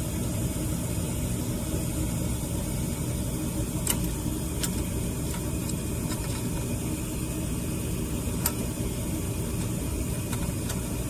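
Gas furnace running with its burner lit: a steady low hum, with two short clicks about four and eight and a half seconds in.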